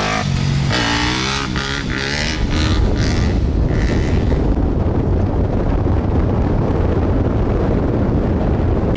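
Dirt bike engine running steadily close by, a low, even rumble.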